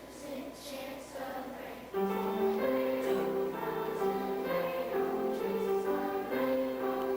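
A choir singing with instrumental accompaniment, held notes moving in steps; it gets louder about two seconds in.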